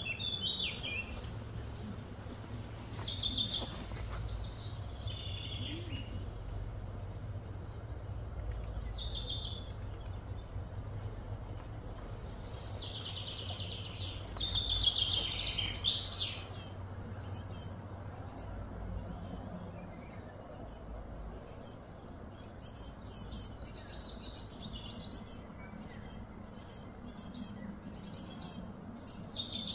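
Birds chirping and calling in short repeated phrases, loudest about halfway through, over a steady low outdoor rumble.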